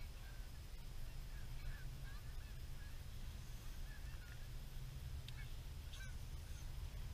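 Birds calling over and over in short, faint calls across the lake, above a steady low rumble. A couple of sharp clicks come about five and six seconds in.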